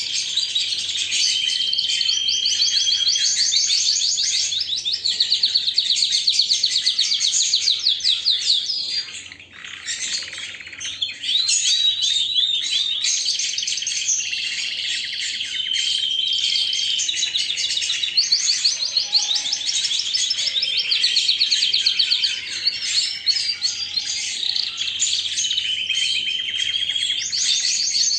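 Domestic canary singing a long song of rapid trills and rolling phrases, high-pitched, with a short break about nine seconds in.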